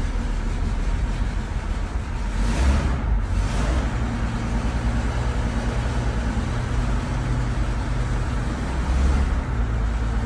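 Mercedes-Benz O321H bus's diesel engine idling steadily just after a cold start, swelling briefly twice: about two and a half seconds in and again near the end.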